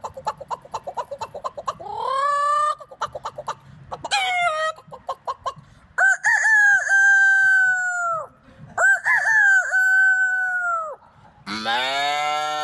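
A man imitating farm animals with his voice: rapid hen clucks broken by short rising cackles, then two long rooster crows. Near the end a deeper, drawn-out call begins.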